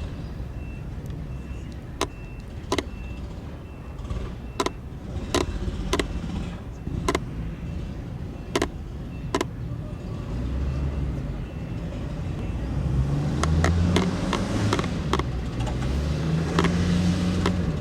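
Car engine running with a low rumble and sharp, irregular pops, then revving up and down over the last few seconds.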